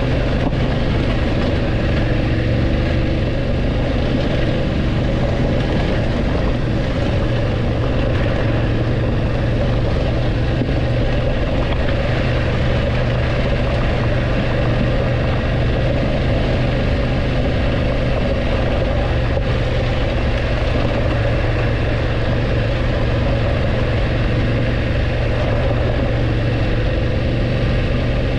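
BMW F850GS motorcycle's parallel-twin engine running at steady revs while riding, a constant low hum.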